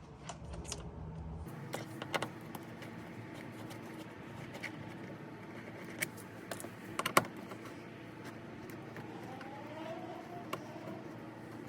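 Hex key tool undoing the 5 mm hex bolts on a car door card: irregular small metallic clicks and taps, with a few sharper clicks about halfway through.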